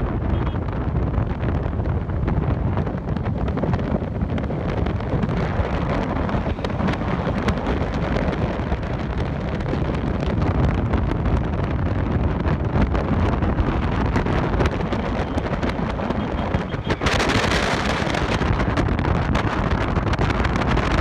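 Wind buffeting the microphone: a steady loud rumble with gusty crackle. It turns brighter and hissier about seventeen seconds in.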